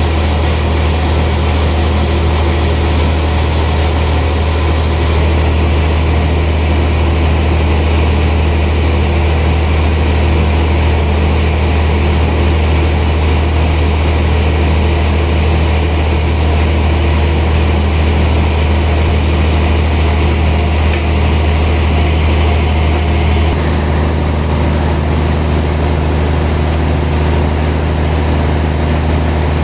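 Sawmill machinery running steadily with a heavy low hum, its higher part changing slightly about three-quarters of the way through.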